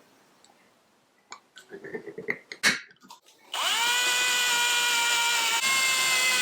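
Electric drill starting about three and a half seconds in and running with a steady whine, drilling holes in a pickle jar's lid. A few light clicks of handling come before it.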